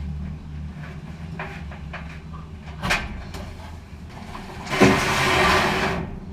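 GE gas dryer's drum being turned by hand on its new belt, rumbling and scraping as the belt drives the blower wheel. There is a knock about three seconds in and a louder rush for about a second near the end.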